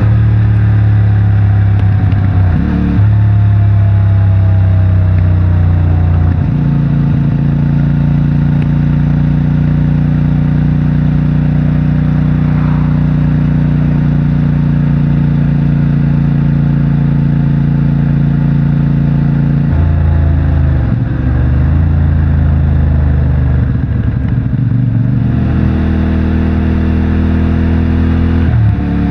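CFMOTO 450MT's parallel-twin engine through its stock exhaust, heard from the rider's seat: it pulls steadily through a long middle stretch, with its note stepping at gear changes a few seconds in and several times in the last third.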